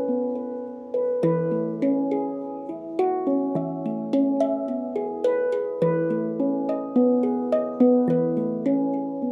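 Handpan being played by hand: a flowing run of struck, ringing notes, with a deep bass note returning every few seconds under quicker higher tones.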